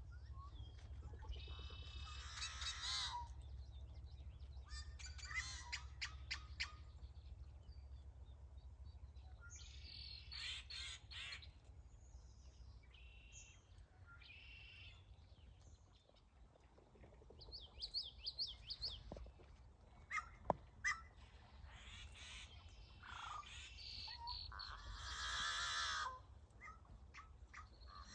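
Wild birds calling: a string of separate chirps, harsh calls and quick high trills from several birds, overlapping at times, over a steady low rumble.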